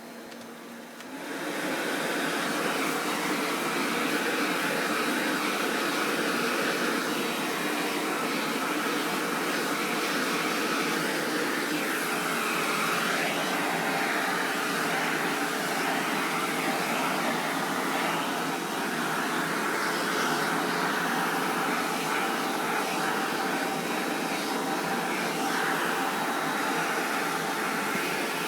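Vacuum cleaner switched on about a second in, then running steadily while it is used to groom a cat, its sound wavering now and then as the nozzle moves over the fur.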